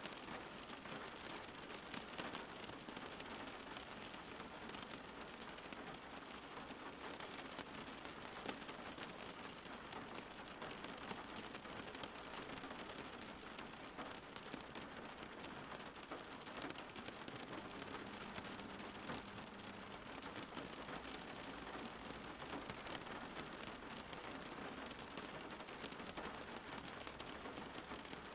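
Steady rainfall, a dense even hiss of drops with scattered individual patters.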